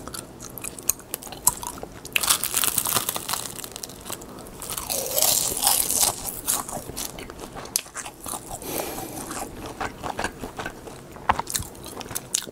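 Close-miked biting and chewing of crisp, dry seasoned laver (gim) sheets: crackling crunches, densest and loudest in the middle stretch, then lighter chewing.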